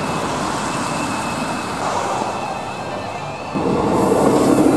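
Traffic on a wet street, then about three and a half seconds in an electric freight train starts rushing past close by, much louder.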